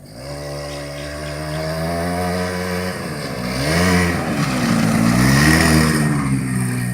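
Small motorcycle engine running as it comes down the road, steady at first, then rising and falling in pitch twice as the throttle is worked, growing louder after the first few seconds.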